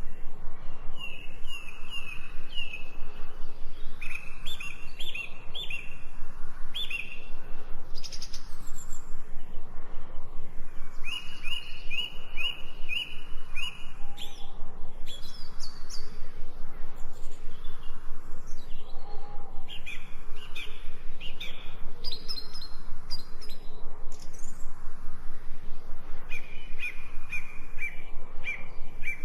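Songbirds singing in a forest, with phrases of several quick, evenly spaced chirping notes repeated every few seconds over a steady background hiss.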